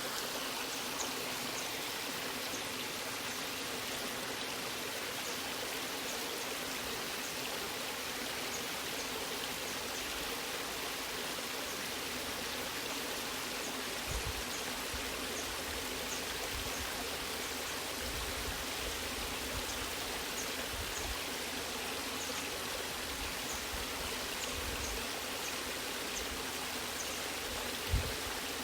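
Natural waterfall running steadily, an even rush of falling water. A brief low thump comes near the end.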